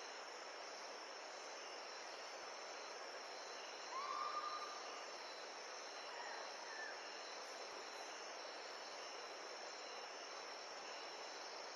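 Steady night chorus of crickets and other insects in jungle. About four seconds in, a single short animal call rises and then holds for about a second, and a fainter call follows a couple of seconds later.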